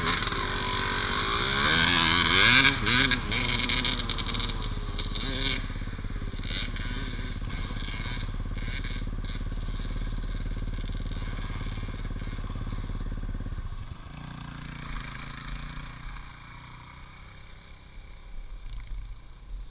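Dirt bike engine revving up and down a few times, then running steadily; about 14 seconds in it drops to a lower, quieter run.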